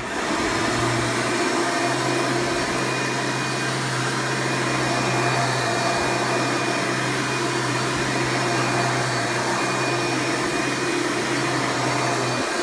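A 1995 Hoover Preferred (Elite) upright vacuum with a 7.2-amp direct-air motor, switched on and running. It starts abruptly and then runs steadily, with a constant low hum under a dense rushing noise.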